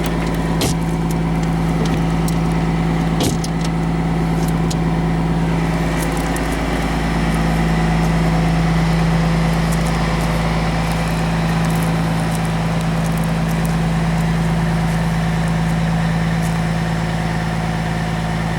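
Cummins ISM turbo diesel engine of a coach bus idling steadily, with a slight swell in level about halfway through. Two sharp clicks sound in the first few seconds.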